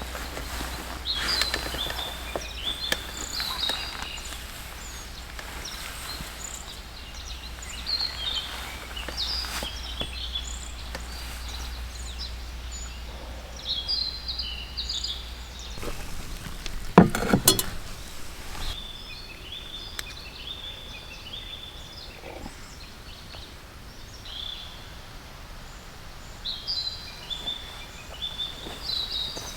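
Birds chirping and singing in short, repeated phrases, with a louder knock or rustle about halfway through.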